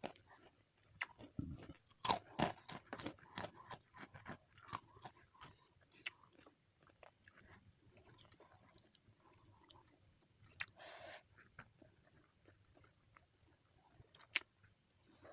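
A person chewing and crunching a meal of fried chicken with raw cucumber and cabbage, close to the microphone. The crunching comes fast for the first six seconds and then thins out, with a brief hiss about ten and a half seconds in and a single sharp crunch near the end.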